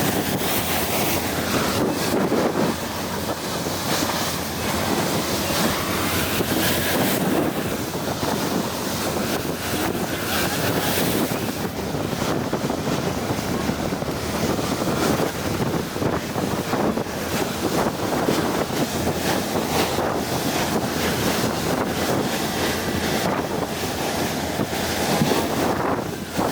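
Wind buffeting the microphone over the rush of water against a moving boat: a steady, loud noise with no clear engine tone.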